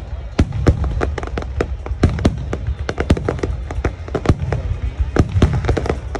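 Fireworks display: a rapid, irregular string of sharp bangs and crackles, several a second, over a continuous low rumble of aerial shells bursting.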